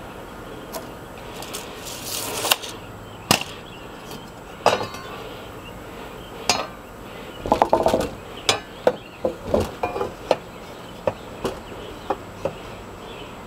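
Irregular knocks and clinks of sheet-metal ductwork being handled and fitted, with a short scraping rush about two seconds in and a quick run of knocks near the middle.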